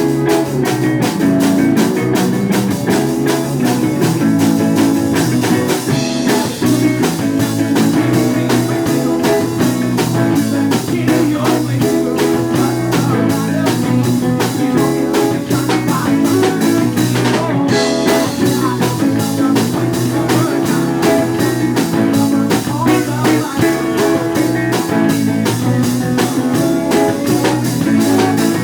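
Live band playing a rock song on guitar and drum kit, with a steady driving beat.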